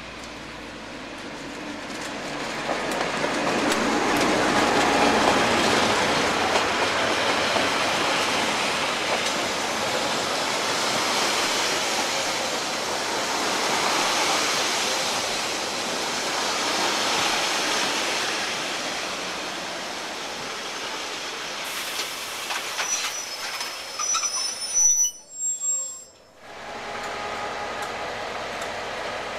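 Diesel-hauled train passing on the rails, its wheel and engine noise swelling a few seconds in and holding steady. Near the end come a few brief high-pitched wheel squeals, a short break, then a steadier, quieter running sound.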